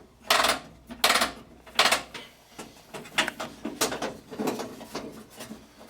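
Metal clinking and knocking as tools and door parts are handled: a string of separate sharp clinks, the three loudest in the first two seconds, then lighter ones.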